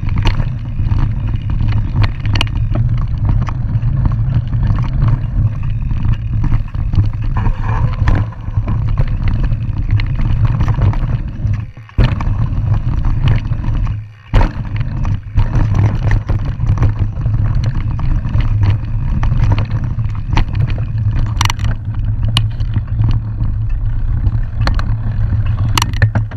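Mountain bike riding a rough dirt trail, heard close up: a loud steady rush of wind on the microphone and tyre roar, with scattered clicks and rattles from bumps. The noise drops away briefly twice near the middle.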